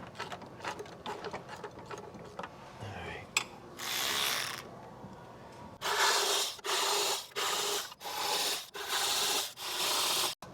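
Hand ratchet clicking while T20 Torx bolts on the upper intake manifold are broken loose: faint ticks, one burst of clicking about four seconds in, then about six half-second bursts of rapid clicking with short pauses between strokes.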